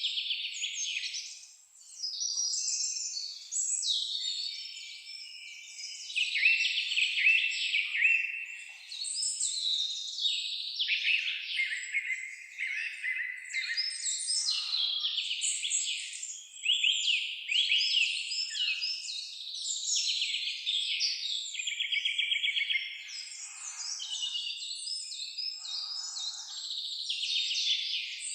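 Several songbirds singing at once: a dense, unbroken chorus of overlapping chirps, quick trills and short whistled phrases.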